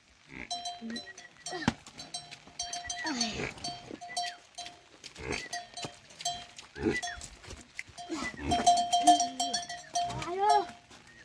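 Livestock bleating again and again in arched, wavering calls, with bells clinking among them.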